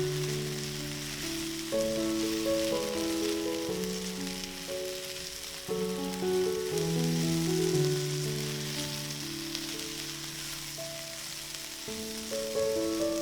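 Food sizzling steadily as it fries in a pan, under background music of slow, held notes.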